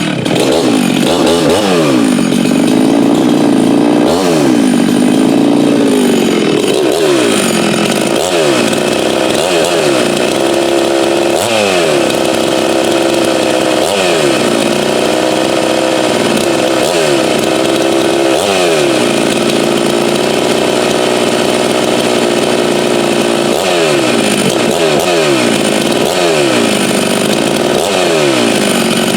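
Two-stroke Farmertec MS 660 clone chainsaw with a 36-inch bar running hard at full throttle, cutting wood. Its engine pitch repeatedly sags and recovers every second or two as the chain loads up in the cut.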